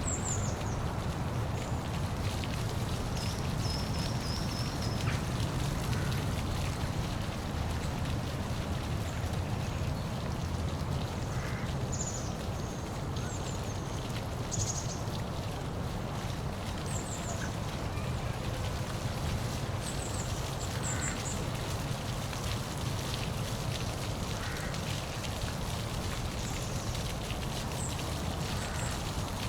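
Waterfall's water falling and splashing in a steady rush, with short high bird chirps now and then.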